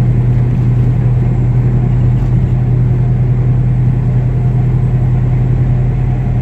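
Steady drone of a heavily loaded semi truck at highway speed, heard from inside the cab: a strong low engine hum with road and tyre noise over it.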